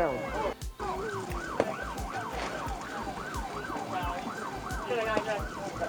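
Emergency vehicle siren on a fast yelp, its pitch sweeping up and down about two to three times a second without a break.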